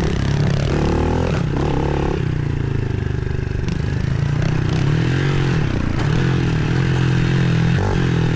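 Pit bike engine revving up and dropping off over and over as it is ridden down a dirt trail, the pitch rising and falling with the throttle.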